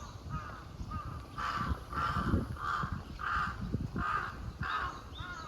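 A crow cawing, about six harsh caws in a row roughly half a second apart, starting about a second and a half in. Another bird's short curved calls are heard around them.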